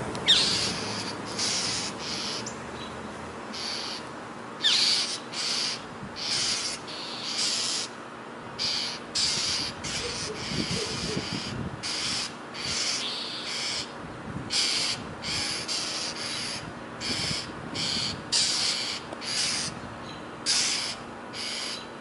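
Other birds calling over and over near a hawk with its kill: short, harsh, high-pitched calls, about one or two a second, with a few thin rising chirps mixed in. The uploader hears these calls as the other birds mourning.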